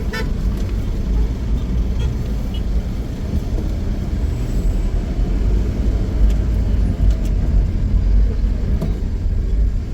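Car on the move: a steady low rumble of engine and road noise, with a brief rattle just after the start.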